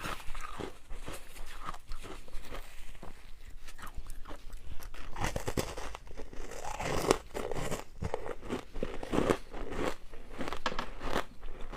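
Ice being bitten and chewed: a steady run of irregular crunches and crackles close to the microphone.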